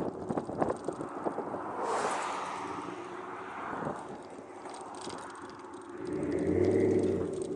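Exhaust of a 2013 Ram 1500's 5.7 L Hemi V8 through a Flowmaster Super 40 muffler, dying down after a rev, then a steady louder hum swelling for about a second and a half near the end.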